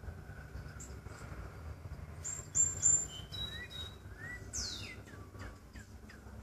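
A bird singing: three quick high chirps about two seconds in, then a few short whistled notes and a falling sweep.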